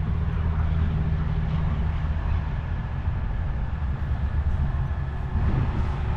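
Diesel truck engine idling: a steady low rumble whose even low hum eases off about two seconds in.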